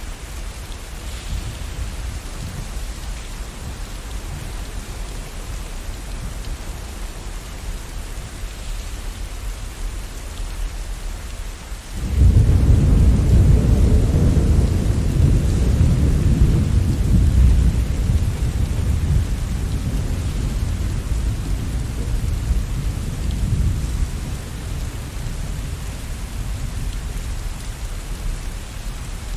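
Steady rain, with a rumble of thunder that breaks in suddenly about twelve seconds in, loudest for several seconds, then slowly dies away under the rain.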